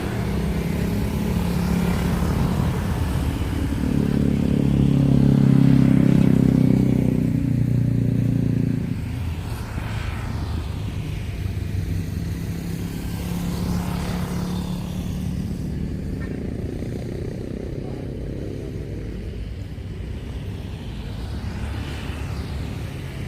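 Engine noise: a steady low hum that swells about four seconds in and eases off after about nine seconds.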